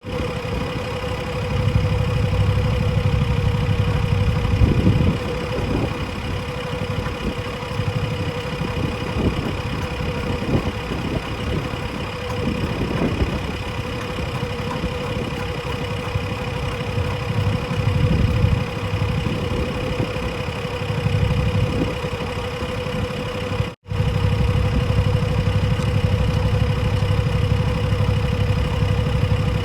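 A Deere 27D mini excavator's diesel engine runs steadily, its low rumble swelling now and then. The sound cuts out for an instant a little before the end.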